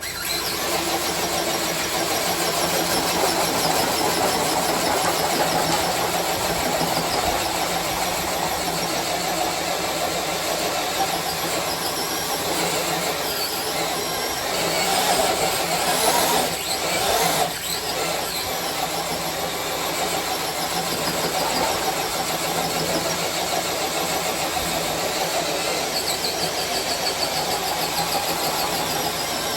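Electric RC crawler truck pulling a sled weighted with six bricks and a small ATV battery: motor and drivetrain running steadily under heavy load, with squealing and scraping as it drags the load across the floor. The sound grows louder for a moment about halfway through.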